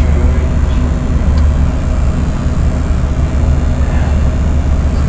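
Steady low drone of a parked semi truck's idling engine, heard from inside the cab, with a couple of faint small ticks.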